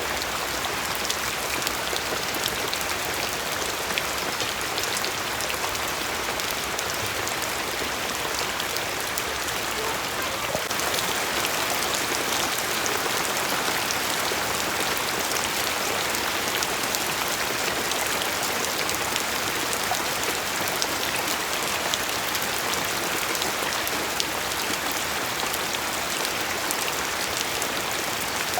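Steady rain falling and pattering on a surface, with many fine drop ticks; it gets slightly heavier about ten seconds in.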